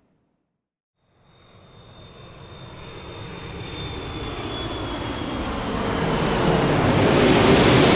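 Airplane jet engine noise fades in after about a second of dead silence and grows steadily louder. A thin high whine slowly falls in pitch over the rising noise.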